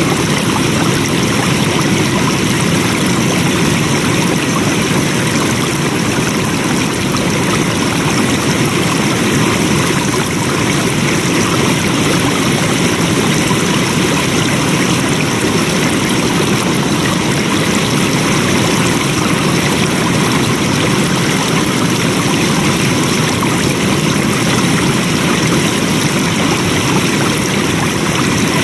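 Flowing water rushing steadily, like a stream, with an even, unbroken sound.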